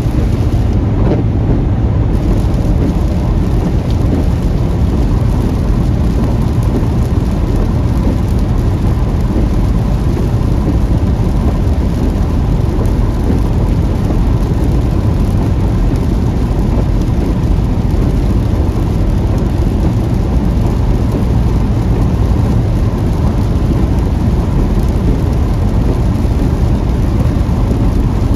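Car driving through a heavy rainstorm: steady rain and road noise, with no single sharp event standing out.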